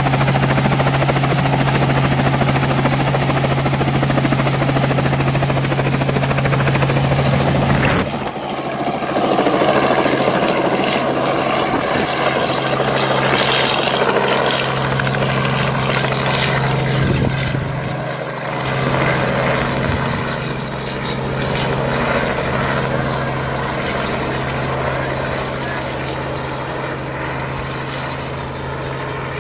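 Helicopter running, its rotor and engine giving a steady low hum under a loud rushing noise. About eight seconds in, the sound changes abruptly: the high hiss falls away and the noise becomes more uneven while the low hum carries on.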